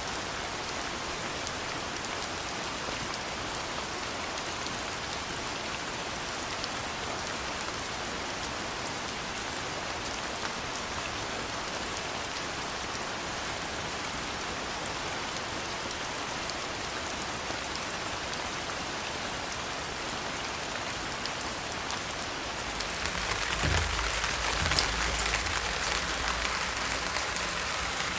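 Steady soft rain falling. About 23 seconds in it grows louder and brighter, with a few sharper drop hits.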